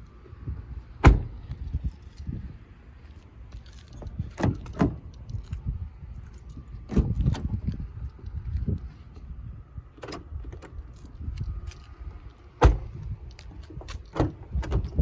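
Car doors of a 2018 Honda Accord being opened and shut, with keys jangling and rustling handling noise between several sharp clunks; the loudest clunks come about a second in and again about three quarters of the way through.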